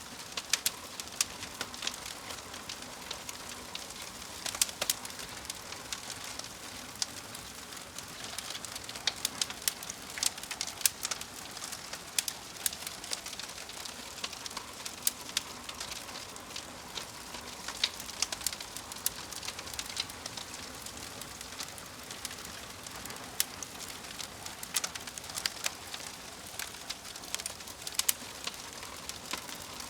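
Wood fire crackling: a steady low hiss with frequent irregular sharp pops and snaps.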